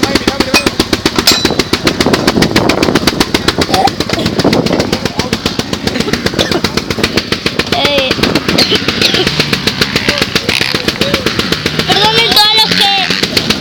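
Off-road race engine running close by, its exhaust giving a rapid, even train of pops, easing off in the middle. People talk in the background in the second half.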